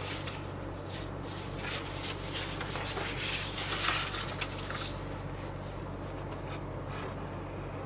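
Quiet room tone with a steady electrical hum and soft rubbing noises, loudest about three to four seconds in.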